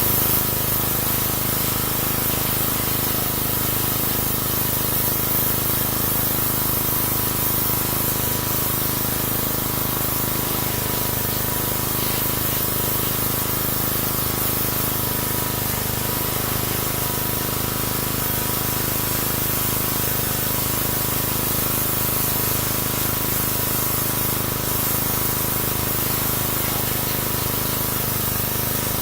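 Pressure washer spraying water into an engine bay: a steady, continuous hiss of spray with a steady hum beneath it.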